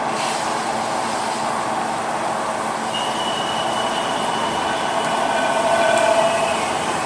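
CNC lathe running with a steady mechanical noise; a thin high whine sets in about three seconds in, with lower tones joining it near the end.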